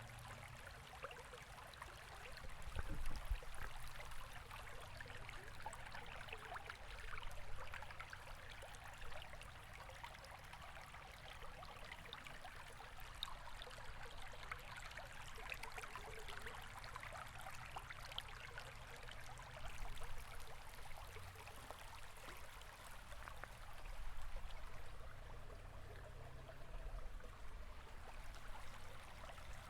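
River water running: a steady babbling rush with a low rumble beneath, swelling briefly now and then, most strongly about three seconds in.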